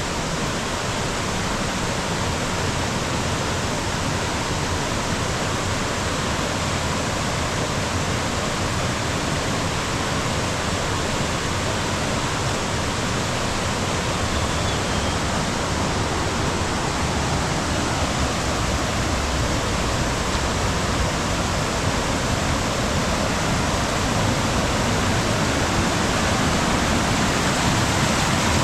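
Mountain stream flowing: a steady, even rush of water, growing slightly louder toward the end.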